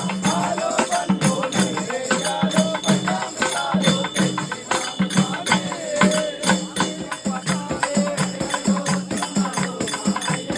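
Devotional bhajan music: singing with steady rhythmic percussion, close-set jingling strokes over a repeating drum beat.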